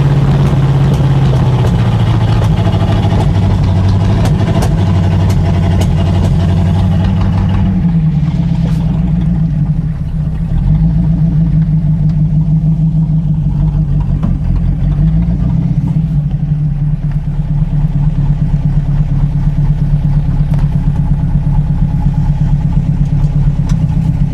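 1941 Buick straight-eight engine running at low speed. Its pitch drops about eight seconds in and picks up again about fifteen seconds in.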